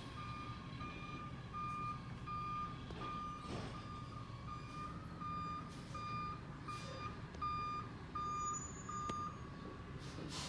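A garbage truck's backup alarm beeping steadily, about three beeps every two seconds, over the low running of its diesel engine. The alarm stops about a second before the end.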